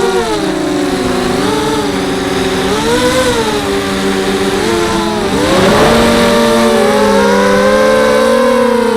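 Brushless motors and propellers of a 250-size FPV quadcopter whining, their several pitches rising and falling together as the throttle changes. About five seconds in there is a brief rush of air noise, then the motors settle at a steadier, higher pitch.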